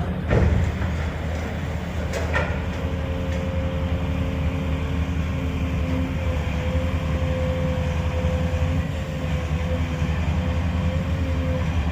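Heavy demolition machinery running steadily, a low engine drone with a steady whine over it. Two sharp knocks in the first couple of seconds, the sound of the building being broken up.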